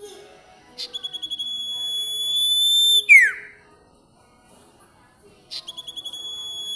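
Sirtu songbird in full song, singing twice the same phrase: a rapid stutter of short notes that runs into a long, shrill, piercing held whistle, growing louder, then snaps off in a quick downward slur. The second phrase starts near the end and is still going.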